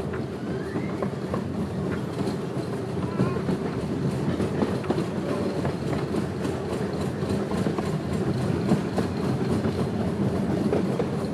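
Cars of a small park steam railroad rolling along the track, heard from aboard: a steady rumble with a running clickety-clack of the wheels.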